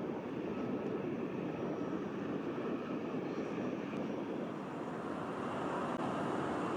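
Jet airliner's engines heard at a distance: a steady, even rushing noise with no breaks.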